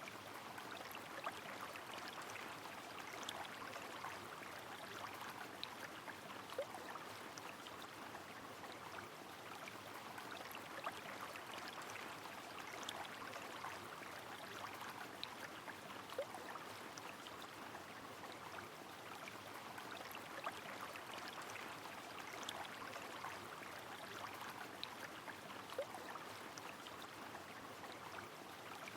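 Steady rush of flowing river water mixed with falling rain, with scattered sharp ticks of drops over it.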